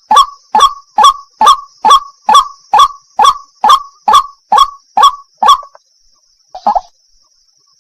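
White-breasted waterhen (wak-wak) calling: a rapid, even series of sharp calls, about two a second, that breaks off about five and a half seconds in, followed by a short double note. A faint steady high hiss runs underneath.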